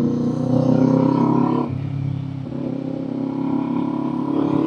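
Kawasaki Z400's parallel-twin engine and exhaust under way on the road, its pitch climbing a little and then dropping abruptly about a second and a half in, before running steady.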